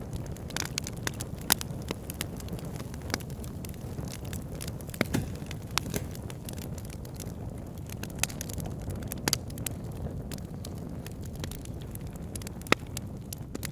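Wood fire burning in a fireplace: irregular sharp crackles and pops over a steady low rush of flame, with a few louder pops scattered through.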